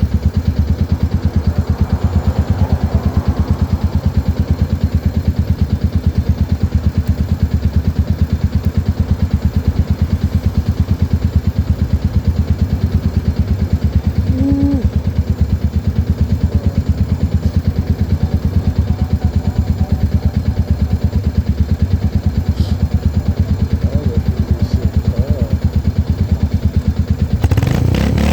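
Royal Enfield Himalayan's single-cylinder engine idling with a steady, even thump. Near the end the throttle opens and the engine revs up as the bike pulls away.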